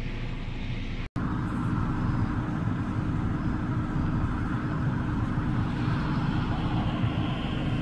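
Steady mechanical rumble of a car at a car wash, with the wash equipment running. It cuts out abruptly about a second in and comes back a little louder.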